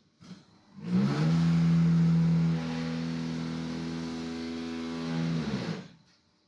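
QD6-15 concrete block machine running a cycle: a loud, steady, pitched machine hum that starts abruptly about a second in, drops in level about halfway through, and cuts off near the end.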